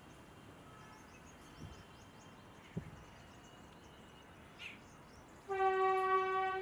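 A train horn sounding one long, steady blast, starting about five and a half seconds in, over faint bird chirps.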